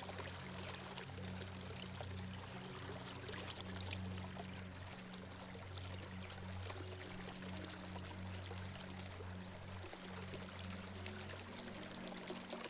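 Small stream flowing steadily, a continuous rushing of water, with soft, low sustained background music beneath it.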